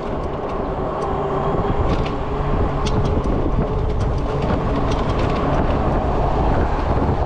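Wind rushing over the microphone and tyre rumble from a Zota Zephyr e-bike riding over rough city pavement, with frequent small clicks and rattles.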